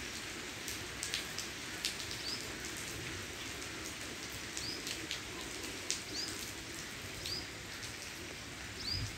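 Potato and brinjal pieces sizzling in hot oil in a kadhai: a steady crackling hiss with frequent sharp spits and pops.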